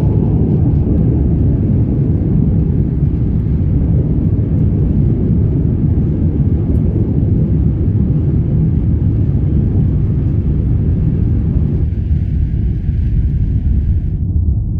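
Loud, steady low rumble of the Rolls-Royce Trent XWB engines and airframe, heard inside the cabin of an Airbus A350-900. The fainter hiss above the rumble drops away abruptly near the end.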